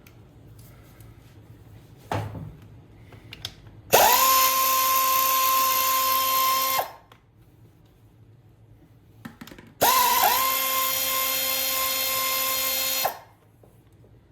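Cordless power drill/driver run twice for about three seconds each, spinning up quickly to a steady whine and stopping sharply, as it backs off the 10mm nuts holding the carburetor and intake on a GY6 150cc scooter engine. Small knocks of tool handling between runs.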